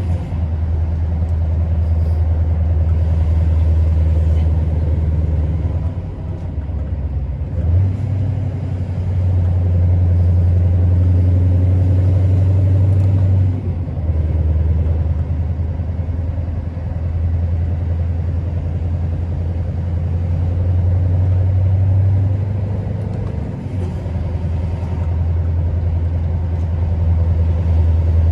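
Scania R650's 16.4-litre V8 diesel pulling along the road as a deep, steady drone, with tyre and road noise. The engine note eases off and picks up again three times, about six, fourteen and twenty-four seconds in.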